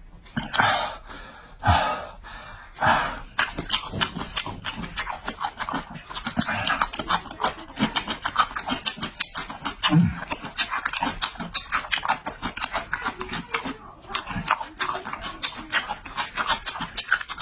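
A person eating noisily close to the microphone: a rapid run of wet chewing clicks and smacks, with a few sharp slurps or breaths in the first few seconds.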